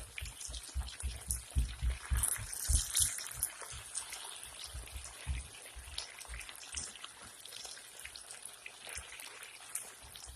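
Sliced potatoes frying in olive oil and butter in a pan, sizzling and crackling steadily as they are stirred with a rubber spatula, with soft repeated knocks of the stirring through roughly the first six seconds.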